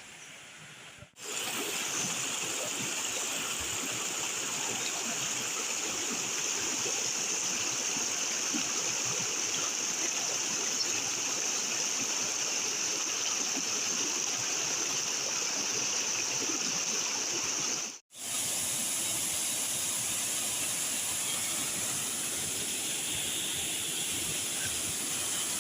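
Steady rush of fast-falling water from Stockghyll Force waterfall and its beck. It is quieter for about the first second, then jumps up, with one brief dropout about two-thirds of the way through.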